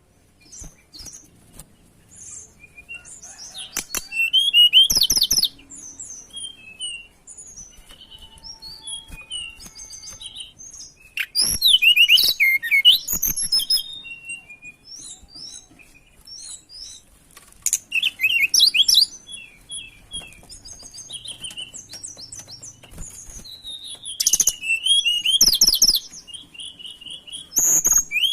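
Tledekan songbird singing: loud bursts of rapid, high chirping trills every few seconds, with softer scattered chirps between them.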